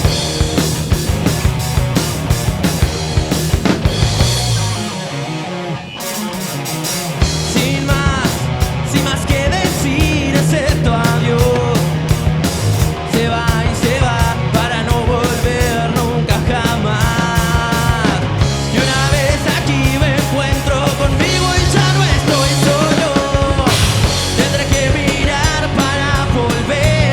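Rock band playing live, with a drum kit and a wavering melodic lead line. About five seconds in, the drums and low end drop out for roughly two seconds, then the full band comes back in.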